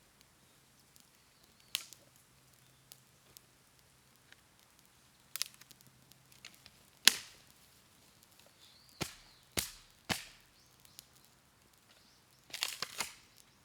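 Bamboo burning in a bonfire, giving a string of sharp cracks and pops, loudest about seven seconds in, with a quick burst of several cracks near the end.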